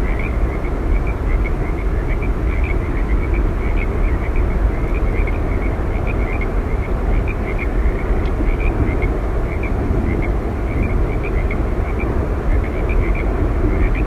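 Steady rushing roar of Yosemite Falls, even and unbroken, with a continuous run of small, quick chirps at one high pitch above it.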